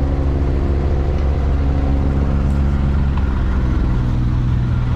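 A motor engine running steadily, its pitch shifting slightly about three and a half seconds in.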